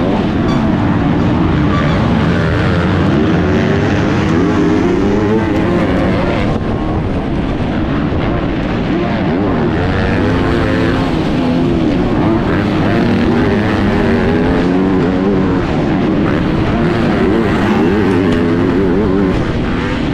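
Loud motocross bike engine at race pace, its revs rising and falling over and over as the throttle is worked.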